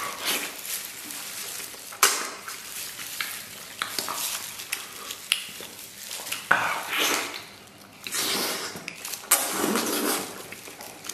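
Close-up mukbang eating sounds: wet chewing, lip smacking and sucking on soft, gelatinous braised beef hoof, with sharp smacks now and then and longer slurping, breathy swells in the second half.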